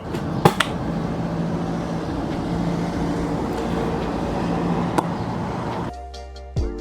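Steady background noise, like a running vehicle or road traffic, with a couple of sharp knocks, one about half a second in and one about five seconds in. Music cuts in suddenly near the end.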